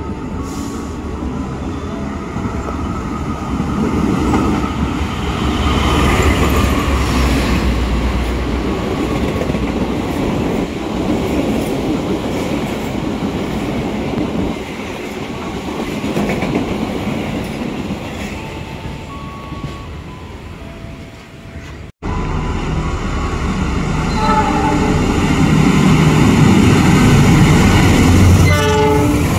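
Trains running through a railway station: a JR 205 electric commuter train passing with its wheels clacking over the rails, with a few short horn toots. After a cut, a diesel locomotive runs with a low drone, and a horn sounds near the end.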